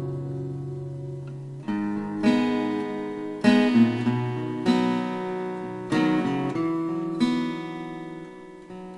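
Acoustic guitar playing slow chords without singing. A chord rings out and fades, then new chords are struck about once a second, each left to ring and die away.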